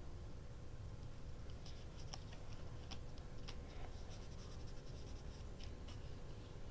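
Irregular light clicks, taps and scratches of paper and small tools being handled during paper crafting, over a faint steady low hum.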